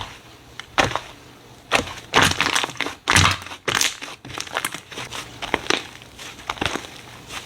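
Slime being squeezed and pressed by hand, giving irregular bursts of crackling and popping that are loudest in the middle.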